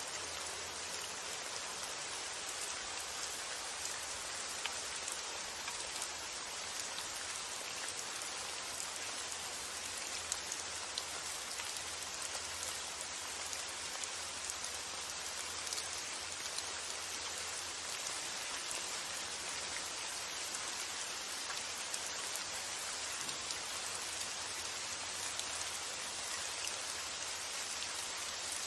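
Steady rain falling: an even, dense hiss with scattered individual drop taps, over a low steady rumble of wind.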